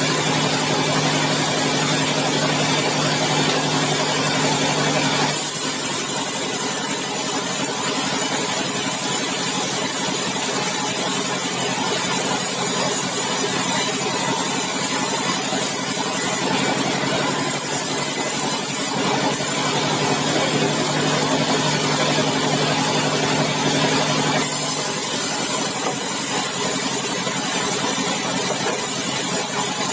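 Sawmill machinery running steadily: a continuous engine-like hum under a wash of mechanical noise, its tone shifting about five seconds in and again a little past the middle and near the end.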